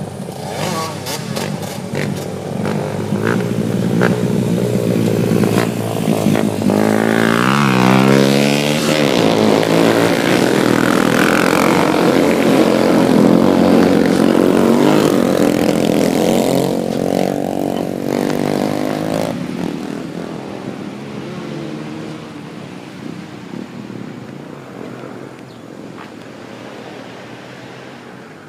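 Motorcycle engine revving, its pitch swinging up and down several times about eight seconds in, loudest through the middle and fading away over the last third.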